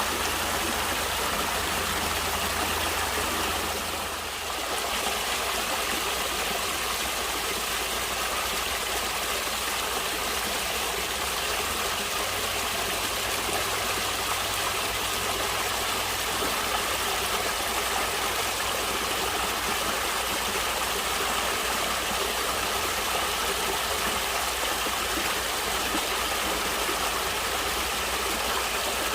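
Natural stream water running steadily as an even, continuous rushing, dipping briefly about four seconds in.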